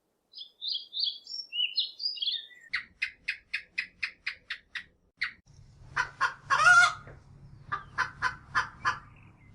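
Domestic fowl calling: high, jumpy chirps at first, then runs of short clucking notes at about four a second, with one louder drawn-out call partway through.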